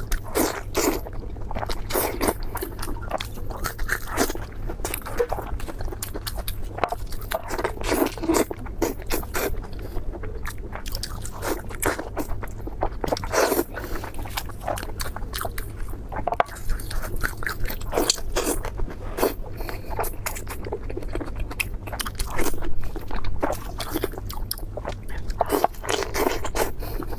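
Close-miked crunchy eating: repeated bites and chewing of crisp food, with dense, irregular crackling crunches throughout.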